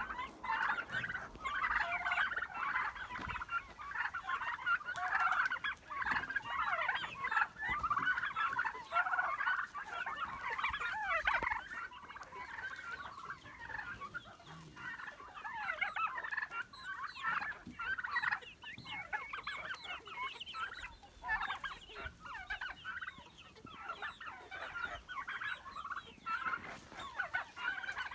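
A flock of birds calling together, many short overlapping chirps and squeaks running on without a break.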